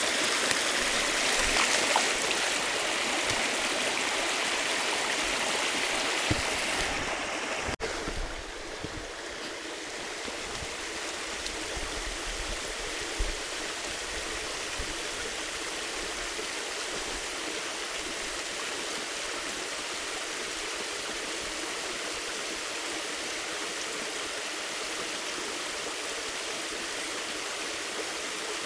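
Flowing river water, a steady rushing and gurgling. About eight seconds in it drops suddenly to a quieter, duller rush.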